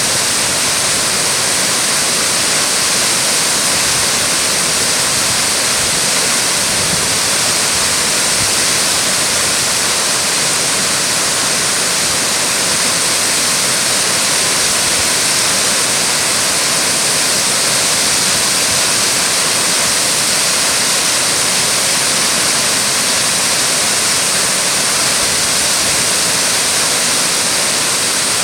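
Naso no Shirataki waterfall pouring, a loud, steady rush of falling water that holds even throughout.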